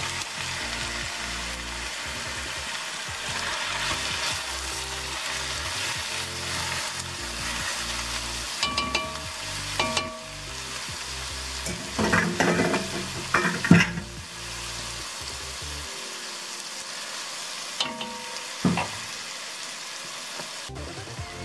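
Diced raw chicken sizzling in a hot enamelled cast-iron Dutch oven with sautéed onions, garlic and mushrooms. A spatula scrapes and knocks against the pot in a few short bursts, the loudest a little after halfway.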